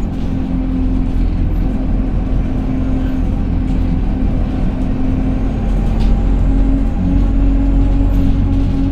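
Interior sound of an Alexander Dennis Enviro200 single-deck bus under way: its engine and drivetrain run with a steady low rumble and a held whine, the loud "hoover" sound. It gets a little louder about halfway through.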